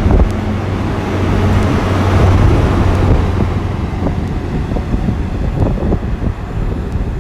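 Wind buffeting the microphone over the steady low hum of a train's engine at the platform, the noise swelling about two seconds in and easing off after.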